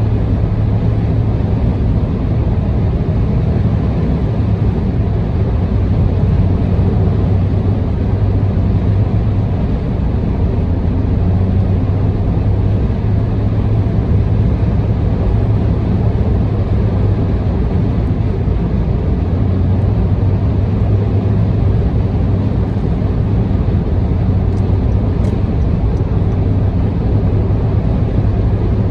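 Steady road noise inside a car cruising on an expressway: a constant low drone from tyres and engine under an even hiss.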